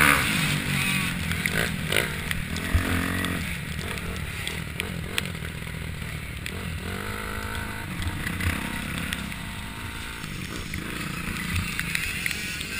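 Motocross dirt bike engines running at varying revs, pitch rising and falling, with a few short sharp knocks.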